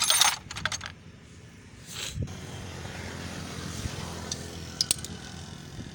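Hand tools and small metal parts clinking during motorcycle repair work. From about two seconds in, a steady vehicle noise underneath.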